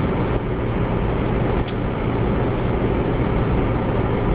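Steady road and engine noise of a car driving, a low rumble with hiss and no distinct events.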